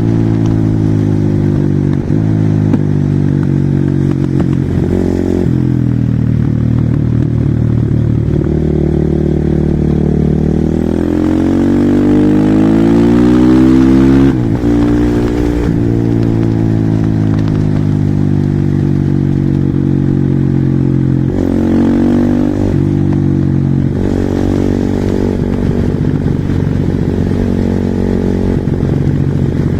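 Husqvarna SMR 450 supermoto's single-cylinder four-stroke engine under hard riding, the revs climbing and falling as it accelerates, shifts and backs off. Its longest climb, about halfway through, cuts off suddenly, with shorter rises later on.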